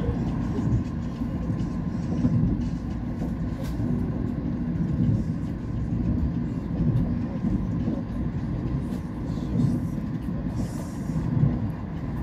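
Steady low rumble of a moving passenger train, heard from inside the carriage, with a few faint clicks over it.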